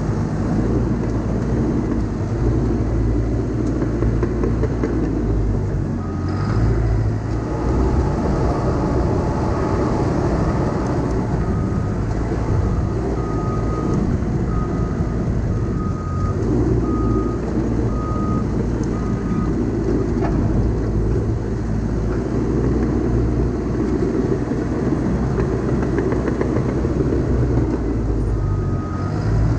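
Heavy earthmoving machine's diesel engine running under load. Its reversing alarm beeps about once a second for around eight seconds in the middle, as the machine backs up.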